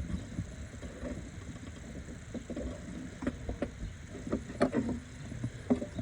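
Irregular clicks and knocks of hand tools and parts being handled in an engine bay while coolant hoses are worked loose, with a few louder knocks in the second half.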